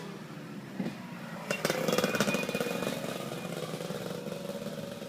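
Trackstar .21 nitro RC engine running, blipped up to higher revs about one and a half seconds in, then easing back down.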